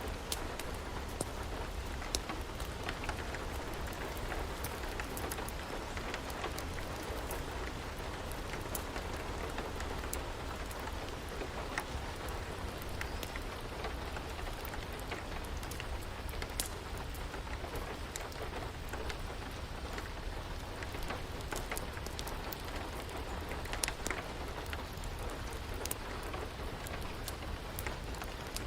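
Steady rain with scattered sharp crackles and pops of a wood fire burning.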